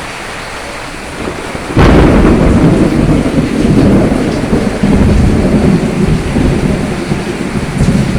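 Steady heavy rain with a thunderclap: a sudden crack a little under two seconds in, then a long low rumble that slowly fades while the rain goes on.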